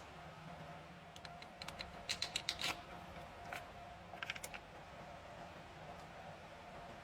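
Groups of sharp clicks and taps, loudest in a quick run of about six a couple of seconds in, over a faint steady hum.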